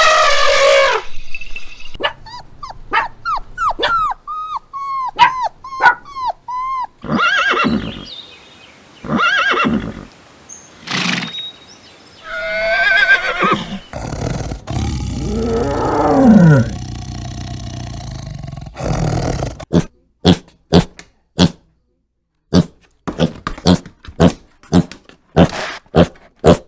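A string of different animal calls, one after another. Early on comes a quick run of short repeated chirps, then several pitched calls and a long call that falls in pitch. Near the end there is a run of sharp clicks.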